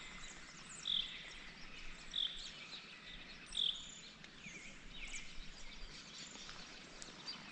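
A bird calling: a short high note repeated four times about a second and a bit apart, with fainter thin chirps over a quiet outdoor background.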